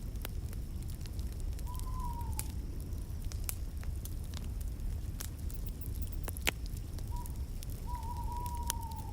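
Wood fire crackling in a fireplace: scattered sharp pops over a steady low rumble. Twice a drawn-out, whistle-like call sounds, slightly falling in pitch; the second is longer and runs near the end.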